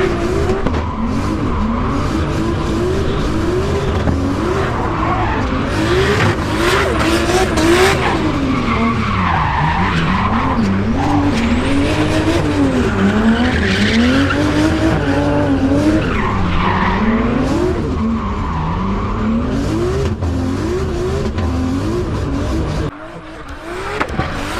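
Turbocharged 2JZ straight-six of a Nissan S14 drift car revving up and down again and again as it is driven through a drift, with tyres squealing and skidding. The sound drops away sharply near the end.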